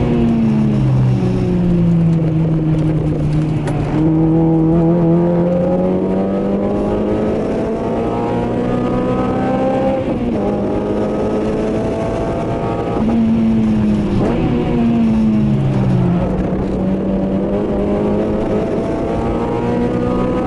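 2008 Honda Civic Type R's 2.0-litre four-cylinder engine, with aftermarket intake and exhaust, heard from inside the cabin while lapping a circuit. Revs fall at the start, climb steadily for about eight seconds under acceleration, drop sharply about halfway through as it comes off the throttle, fall again a few seconds later, then climb again near the end.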